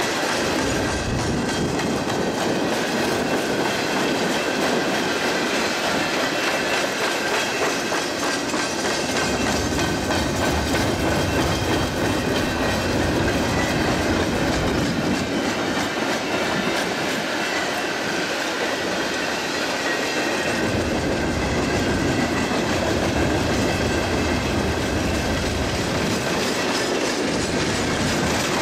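Freight train of loaded flatcars rolling steadily past, steel wheels clicking over the rail joints over a continuous rumble.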